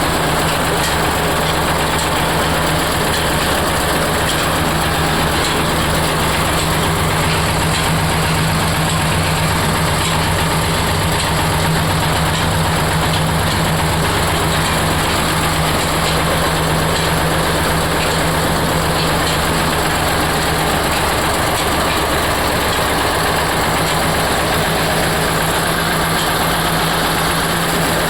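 Oil expeller (screw oil press) running steadily, a constant machine noise with a low hum throughout.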